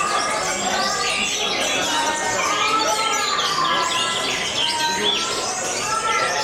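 Many caged songbirds singing at once, a dense overlapping chorus of quick chirps, trills and whistles at a songbird contest.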